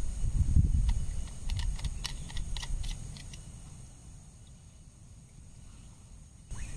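Forest ambience: a steady high insect drone, with a low rumble and scattered sharp clicks that fade away over the first four seconds.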